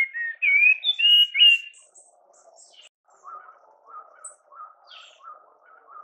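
Wild birds singing: loud, clear whistled phrases that glide up and down for the first couple of seconds, then quieter short notes repeated about twice a second, with a few high chips.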